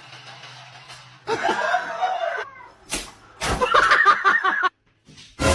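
A person laughing in two stretches, with a sharp knock about three seconds in.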